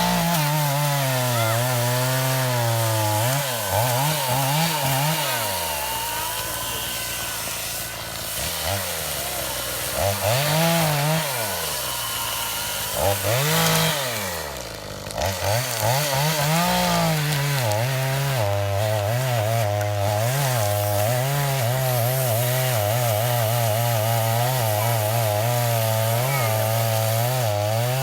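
Gas chainsaw running while bucking felled trees, its engine revved up and dropping back several times, then held at steady high revs for roughly the last ten seconds.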